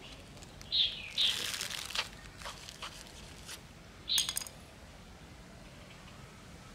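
A few short, high bird chirps, a pair about a second in and another about four seconds in, over a spell of rustling and light clicks from hands working stem cuttings into a plastic mesh basket of soil.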